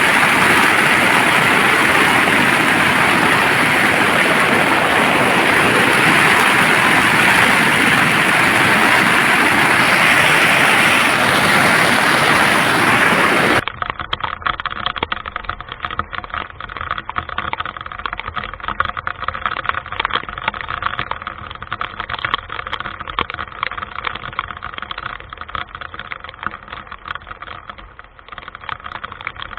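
Heavy rain drumming on tent fabric, a loud steady hiss. About halfway through it cuts off suddenly. A quieter, duller crackle of many small ticks follows.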